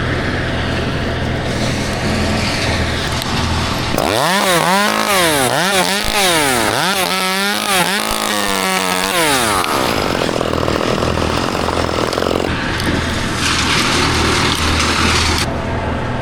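Chainsaw revving up and down over and over, about once a second, over a steady low engine drone. A rough, noisy stretch follows in the second half.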